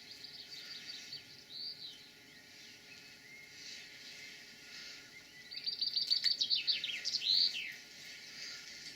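A songbird singing: a short run of quick, high repeated notes near the start, then a louder phrase of rapid repeated notes that ends in a few sweeping notes, over faint outdoor background noise.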